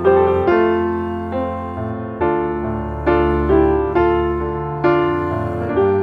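Background piano music: slow, gentle chords struck about once a second, each note dying away.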